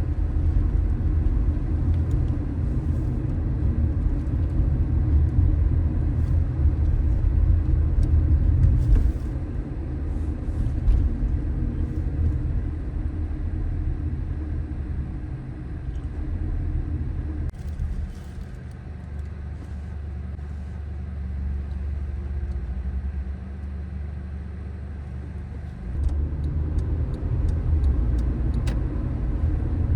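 Car driving on city streets: a steady low road and tyre rumble. It eases off about a third of the way in, is quieter for a stretch past the middle, and picks up again near the end.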